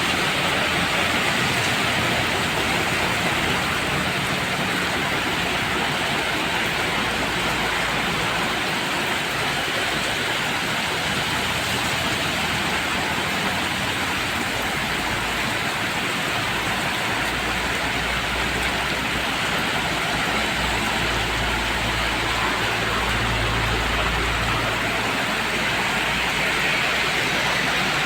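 Steady rain hiss over road traffic on a wet road, with a low vehicle engine rumble that swells for several seconds past the middle and fades near the end.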